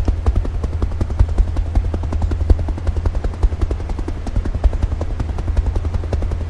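Helicopter sound: rapid rotor chopping over a steady low rumble.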